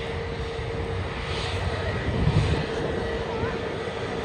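Aircraft engine noise at an airport: a steady rumble with a constant whining tone, swelling briefly a little past the middle.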